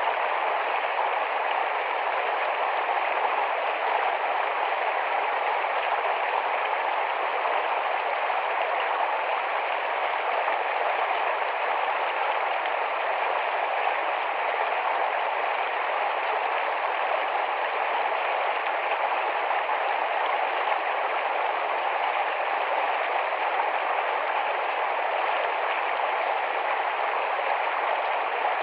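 Shallow, fast-running forest stream: a steady, even rush of flowing water.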